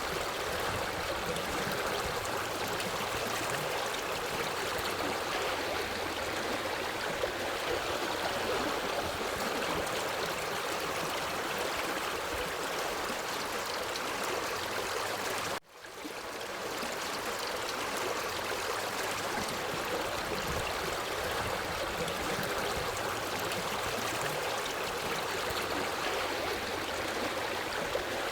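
Forest stream running steadily, an even rush of water. About halfway through it cuts out for a split second and swells back up over about a second.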